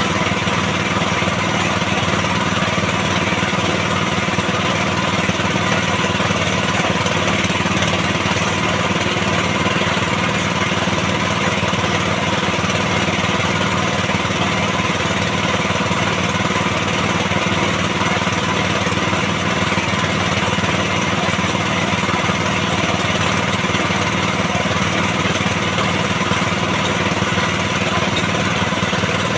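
Engine of a water-well drilling rig running steadily at a constant speed, left to drill on its own.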